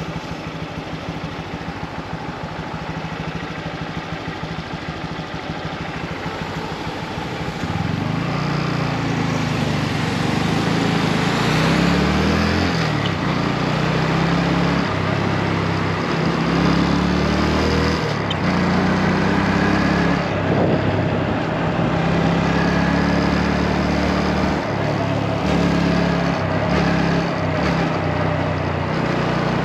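Motorcycle engine running on the move, over a steady rush of noise. About eight seconds in it grows louder, and its pitch rises and falls with throttle and gear changes.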